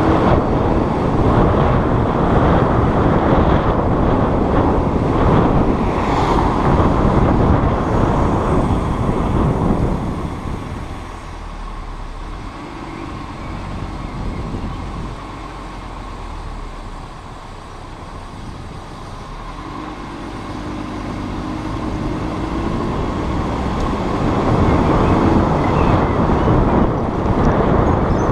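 Audi RS3 sedan driving: steady road and engine noise that drops to a quieter spell for several seconds in the middle, then builds again.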